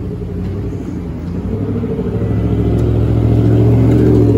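A motor vehicle's engine running close by, a deep steady drone that grows louder until about four seconds in, then begins to fade as the vehicle passes.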